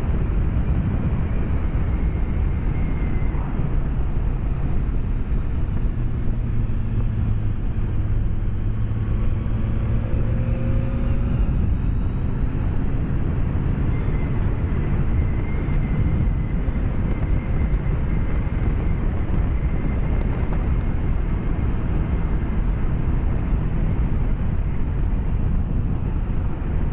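BMW K1200S inline-four engine and wind rush heard through a microphone inside the rider's helmet while cruising at about 60 mph: a steady low roar of wind and road with a faint engine hum, its pitch shifting slightly about a third of the way in.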